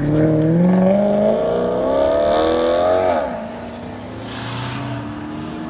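Sports car engine accelerating hard, its pitch climbing for about three seconds and then dropping sharply as the throttle comes off, followed by a lower, steadier engine note.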